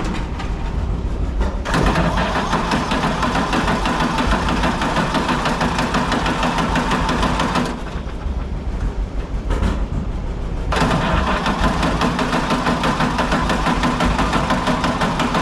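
Tractor engine running, getting louder for two stretches of revving: one from about two seconds in to about eight, and one from about eleven seconds in to the end, with a quieter dip between them.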